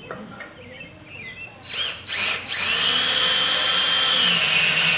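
Power drill driving a screw through a 2x4 into a wooden stump: two short squeezes of the trigger about two seconds in, then a steady run of about two and a half seconds that stops abruptly near the end.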